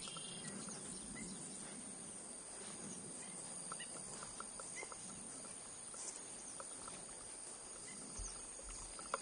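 Outdoor ambience: insects trilling steadily on a high pitch, with a few short, faint chirps scattered through.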